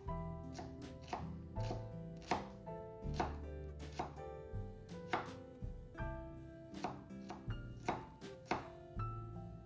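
A knife chopping food on a cutting board, uneven strokes at about one or two a second, over background music with sustained notes and a bass line.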